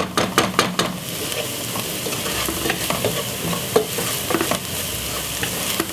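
Wooden spoon stirring and scraping a spiced onion, garlic and ginger base frying in a non-stick pot, over a steady sizzle. Several sharp taps and scrapes of the spoon come in the first second, then fewer.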